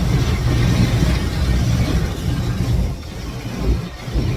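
Automatic car wash machinery heard from inside the car: a loud, steady rumble with a wash of hiss, easing off about three seconds in as the wash cycle nears its end.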